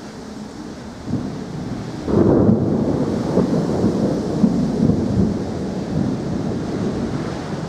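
Thunder: a rumble that starts suddenly about two seconds in and rolls on loudly.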